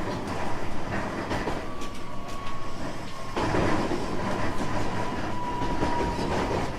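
Running sound inside a JR West 225 series 5000 subseries electric train with Toyo Denki IGBT traction equipment, cruising: steady rumble of the wheels on the rail with scattered clicks of the rail joints and a faint steady high whine. The rumble grows louder about a third of the way in.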